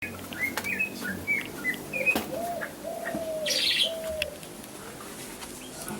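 Birds chirping: a run of quick high chirps, then three longer, lower arched calls in the middle, with scattered clicks and a brief hiss.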